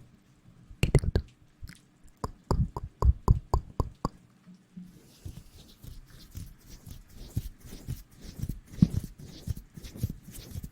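Close-miked ASMR trigger sounds: a quick run of sharp, evenly spaced taps, about four a second, then from about five seconds in a dense, scratchy rustling.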